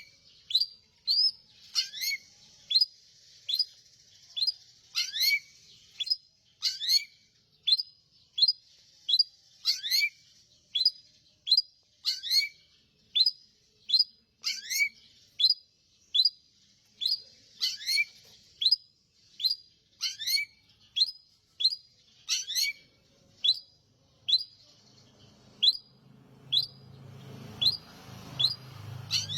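Long-tailed shrike (cendet) calling over and over: a sharp, falling chirp repeated a little more than once a second. A low rumble builds up under the calls in the last few seconds.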